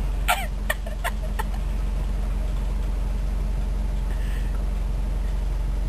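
A car engine idling, a steady low hum heard from inside the cabin, with four short clucking calls in the first second and a half.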